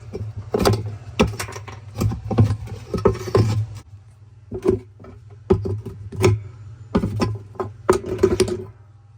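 Irregular knocks and clanks of tools striking and working on metal washer parts, roughly one or two a second, stopping shortly before the end.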